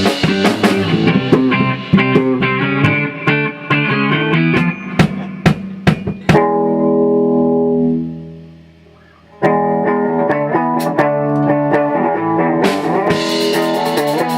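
A band rehearsing live, with guitar, bass and drum kit playing together. About six seconds in they stop on a held chord that rings and fades away; the guitars come back in some three seconds later, and the drums rejoin near the end.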